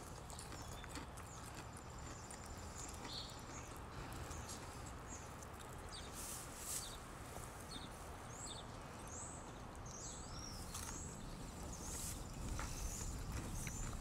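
Quiet outdoor ambience with birds chirping now and then, mostly through the middle, and a few scattered crunches from chewing crispy pan-fried morel mushrooms.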